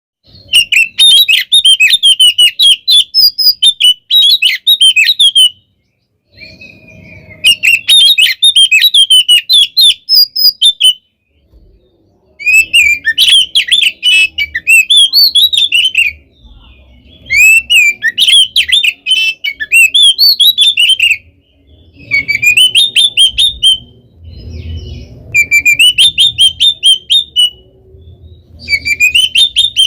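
Oriental magpie-robin (kacer) singing loudly in fast phrases of whistled and rapid notes, each phrase a few seconds long with short breaks between. It is the full, fighting-mood song (ngeplong tarung) that keepers play to provoke other magpie-robins into answering.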